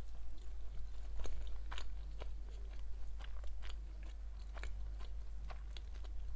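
A person chewing a mouthful of food close to a clip-on microphone: wet mouth clicks and smacks at an uneven pace.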